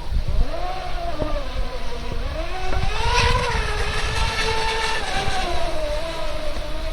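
Electric RC racing boat's motors whining, the pitch rising and falling as the throttle changes, highest about three seconds in. Low rumble underneath, like wind on the microphone.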